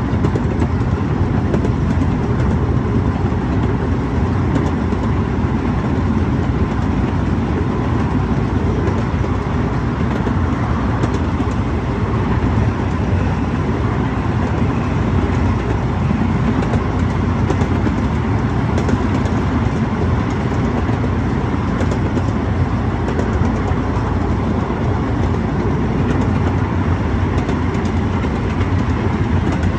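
Amusement park train cars rolling along the track, a steady rumble of wheels on rail that holds evenly throughout.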